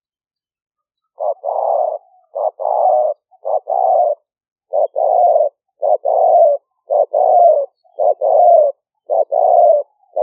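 Decoy spotted dove cooing in a steady series starting about a second in. Each call is a short note followed at once by a longer one, with short pauses between.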